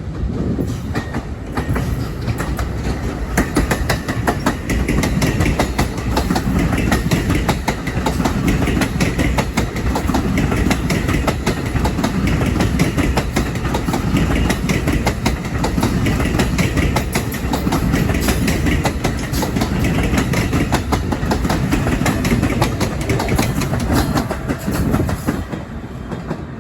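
A train passing close by: a loud, steady rumble of steel wheels on rail with rapid clicks over the rail joints. It starts suddenly and fades away near the end.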